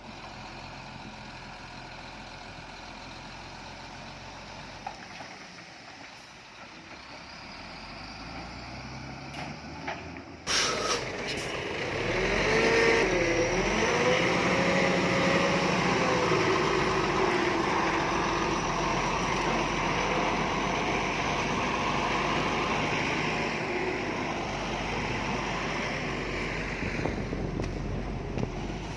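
Heavy diesel engine of construction machinery running at low revs. About ten seconds in there is a sudden burst of noise, and then the engine revs up under load, its pitch rising and falling before it settles at a loud, steady run.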